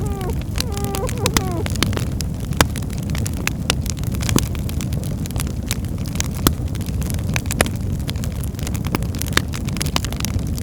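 Birchwood fire burning in a fireplace: a steady low rumble of the flames with irregular sharp crackles and pops scattered throughout.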